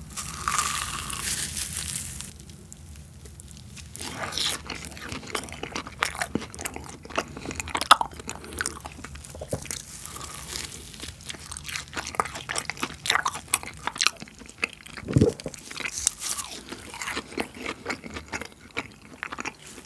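Close-miked bite into a fried potato cheese ball, with a crisp crunch over the first couple of seconds. Then the chewy dough is chewed with many small sharp mouth clicks.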